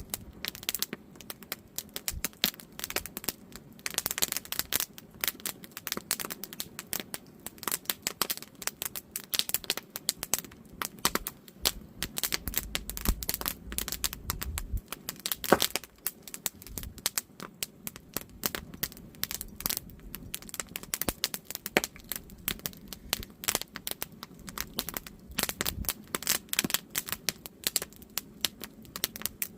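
Wood campfire crackling, with dense, irregular snaps and pops from burning split firewood and one louder pop about halfway through. A low rumble comes in for a couple of seconds just before that pop.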